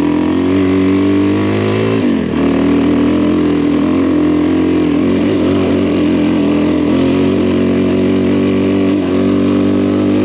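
Adventure motorcycle engine running steadily under way, with wind noise; the engine note dips and shifts about two seconds in, then holds steady.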